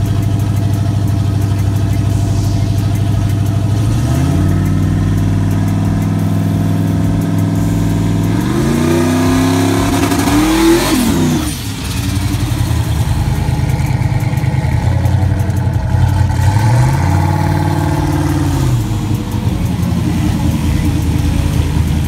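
Big-block V8 of a big-rim donk running steadily, then revved. The revs step up about four seconds in and climb to a peak near the middle, then drop back sharply to idle. They rise and fall once more a few seconds later.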